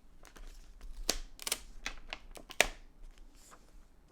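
Glossy magazine paper crackling and rustling as a perfume scent-sample strip is pulled open, with a run of sharp crackles; the loudest comes about two and a half seconds in.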